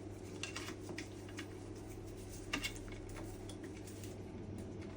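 A few light clicks and taps of small parts being handled, over a steady low background hum.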